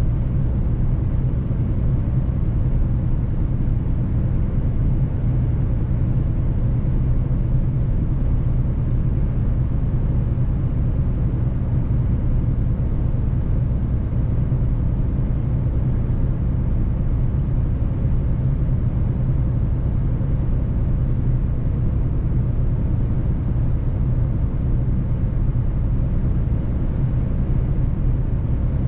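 Mercedes-Benz truck's engine running at a steady pitch, a constant low drone with road noise, with no change in speed.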